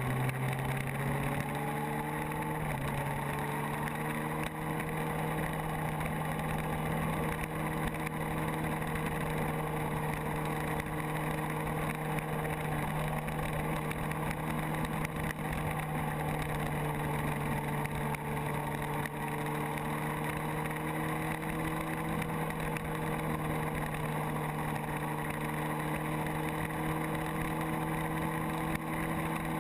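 Kawasaki motorcycle engine running under way with a rush of wind noise. Its pitch climbs over the first few seconds, then holds steady at cruising speed.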